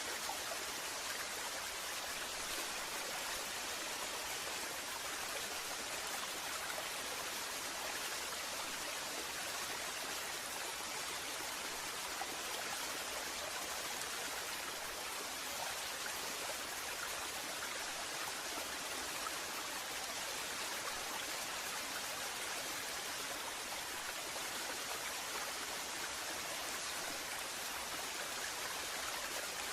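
Waterfall: water falling and splashing in a steady, even hiss.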